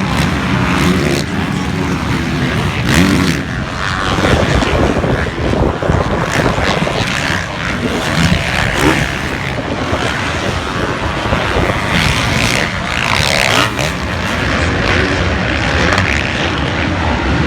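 Motocross bike engines running at high revs, the pitch rising and falling as they rev and shift.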